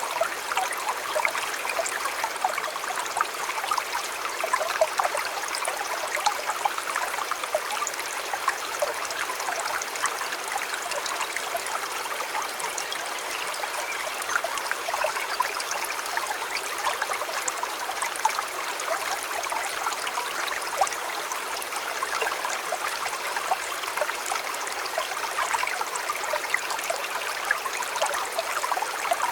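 Small river or stream flowing steadily over rocks, a continuous rushing trickle with many small splashes and gurgles.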